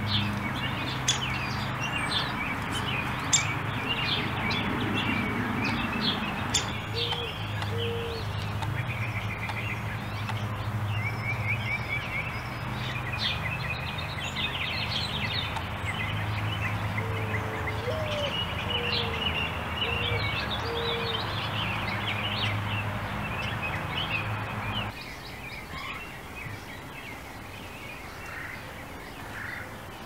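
Many small high chirps, peeps and short trills of birds over a steady background rumble and hum; the rumble drops away abruptly about five seconds before the end.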